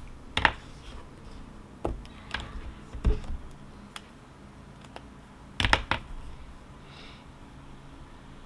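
A handful of short, separate taps and clicks, with a tight cluster of them about six seconds in, over a low steady background hum.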